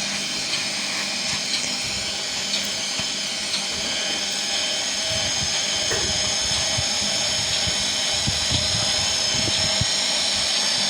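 Samsung Ecobubble washing machine spinning, its motor giving a steady high whine that slowly grows a little louder as the drum runs up.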